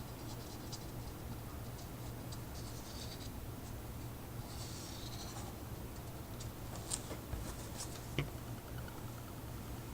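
Alcohol ink pen scratching across chipboard in short strokes, over a low steady hum, with a couple of sharp clicks near the end.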